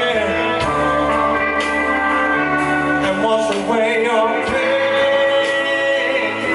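Live blues-rock band playing, with electric guitar, bass and a male voice singing. There are held, bending notes over a steady bass.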